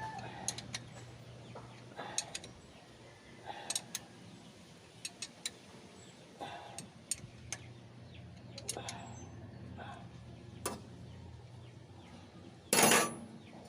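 Scattered light metal clicks and clinks of hand tools and engine parts being handled during engine work, with a louder clatter about 13 seconds in.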